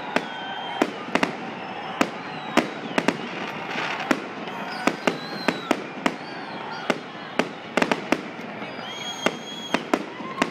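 Aerial fireworks bursting overhead: a rapid, irregular run of sharp bangs, often several a second, over a steady crackling haze, with thin whistles rising and falling among them.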